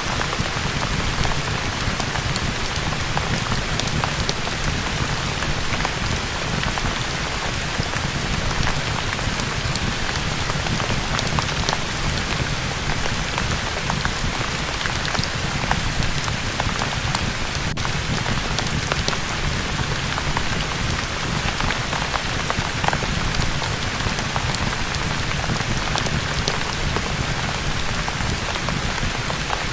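Steady, even rain, with many small scattered clicks and pops from a crackling fireplace mixed in.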